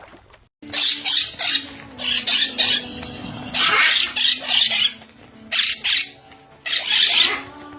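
Baby monk parakeets squawking in a string of harsh, raspy calls, the food-begging calls of chicks.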